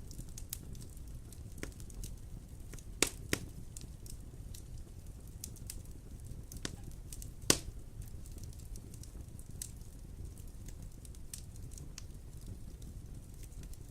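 Wood fire in a fireplace crackling: a scatter of small ticks and snaps over a low steady rumble, with sharp pops, two close together about three seconds in and the loudest one about halfway through.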